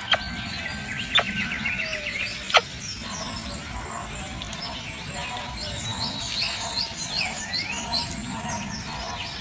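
Small birds chirping in many short, quick notes, thickest in the second half, with three sharp clicks in the first three seconds, the third the loudest.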